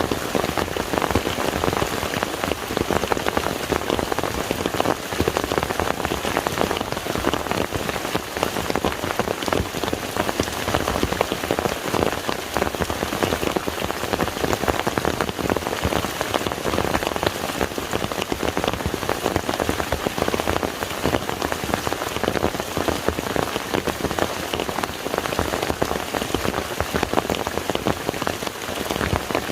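Rain falling on a lake's surface: a steady, dense patter of countless drops.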